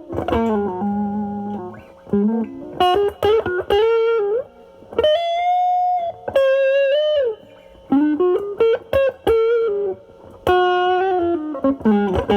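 Semi-hollow electric guitar through a NOBELS ODR-1 overdrive pedal and a Marshall Valvestate amp's drive channel, played with the guitar's volume rolled back so the drive cleans up. It plays single-note blues phrases with short pauses, with a string bend about four seconds in, a held note with vibrato, and a bend released near seven seconds.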